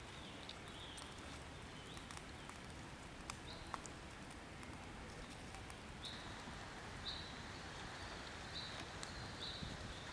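Outdoor ambience: a steady hiss with a few sharp clicks, and short high chirps repeating about once a second in the second half.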